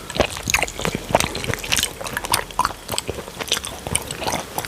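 Close-miked wet chewing and mouth smacks from eating banku with palm nut soup, a quick irregular run of small clicks and squishes.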